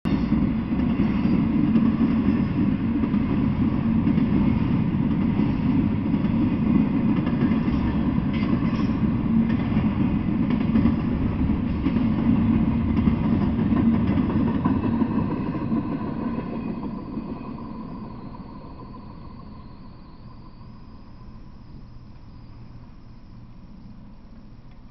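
Intermodal freight train of truck trailers on flatcars rolling past, a steady noise of steel wheels running on the rails. It fades away over a few seconds about two-thirds of the way through as the last car goes by.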